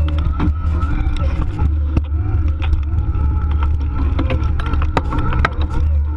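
Electric mountain bike ridden over a forest trail: rumble on the microphone, frequent rattles and knocks from the bike over rough ground, and a steady whine from its Bosch mid-drive motor.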